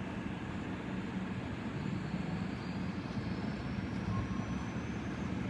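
Air-ambulance helicopter's turbine engines starting up: a steady low hum, with a faint high whine rising slowly in pitch from about two seconds in.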